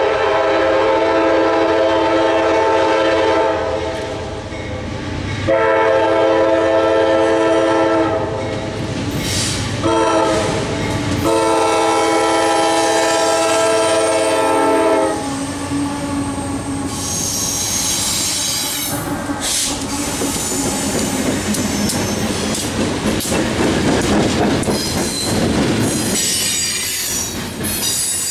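CSX freight locomotive's multi-tone air horn sounding the grade-crossing signal: long, long, short, long. The train then rolls past with a heavy wheel rumble and clatter, and wheel flanges squeal high on the rail twice.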